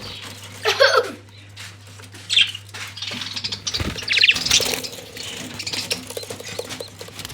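Parrot chicks making short, raspy, pulsed chirps and squeaks, one sweeping downward about a second in, with a steady low hum underneath.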